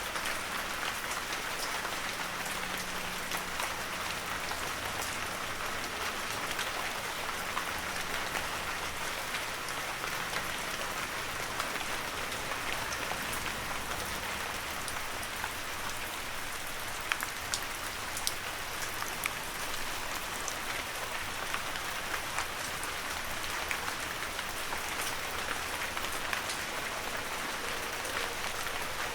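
Steady heavy rain with a dense hiss of drops and scattered closer, sharper drop hits, a few of them louder around the middle.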